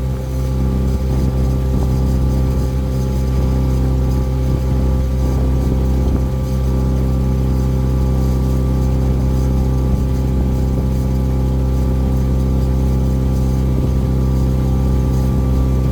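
Tour boat's engine running steadily at constant speed, a loud, even hum with several fixed tones.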